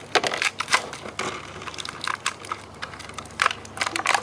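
Plastic toy pieces being handled: irregular clicks, clacks and rattles as a small plastic helicopter toy and its figure are knocked and moved about.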